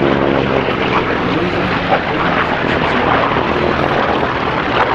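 Pratt & Whitney R-2800 radial engine of a WWII piston fighter flying past: a loud, steady propeller drone whose distinct engine notes are clearest in the first second or two, then blend into a broad roar.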